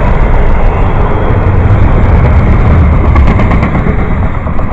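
Double-stack intermodal freight cars rolling past close by: a loud, steady rumble of steel wheels on rail, easing off near the end as the last car passes.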